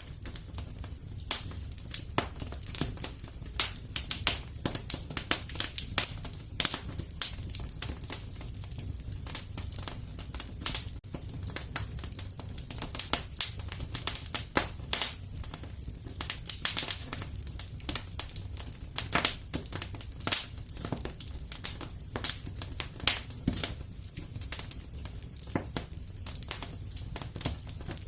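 Wood fire crackling in a fireplace: a steady low rumble of burning logs with many irregular sharp pops and snaps, several a second.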